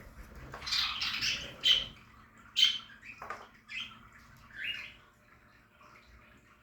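Budgerigars in a colony aviary chirping and squawking in quick short calls, with two sharp loud calls close together around two seconds in. The calls thin out and die away after about five seconds.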